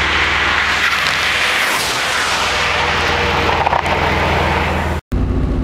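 1991 Nissan 300ZX's twin-turbo 3.0 V6 engine, fitted with twin GT30R turbochargers, running loud while driven, with a strong hiss of noise over the engine note. The low engine note fades about two seconds in; after a sudden cut near the end, a steady low engine drone follows.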